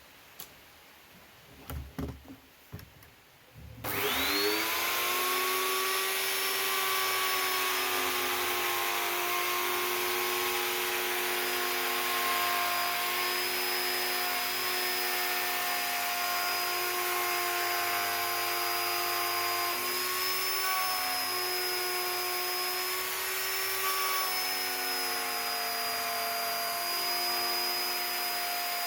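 A few light knocks, then about four seconds in a small electric power tool switches on, its whine rising quickly to full speed and then running steadily, the pitch shifting slightly now and then, as used for carving wood.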